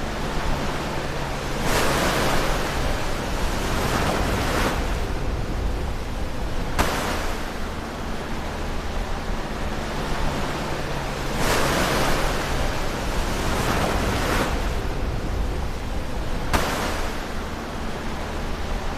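Ocean waves breaking close to the shore: four waves crash about five seconds apart, each a sudden swell of hissing surf that washes out and fades, with a lower wash of water between them.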